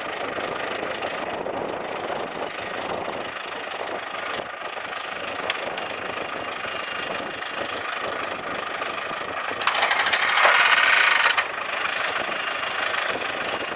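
A peanut-planting machine's engine running steadily. About ten seconds in comes a louder, rapid rattling burst lasting about a second and a half.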